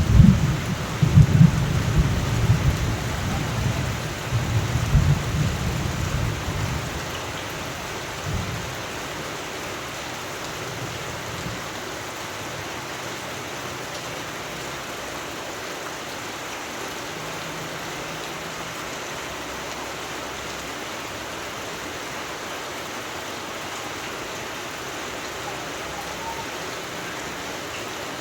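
Thunderstorm: steady rain falling, with a low rumble of thunder in the first several seconds that fades out, leaving only the even hiss of rain.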